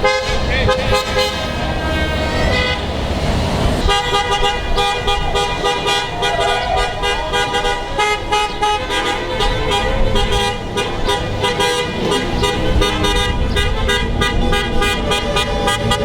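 Car horns honking, several held for long stretches with shorter beeps among them, over passing road traffic.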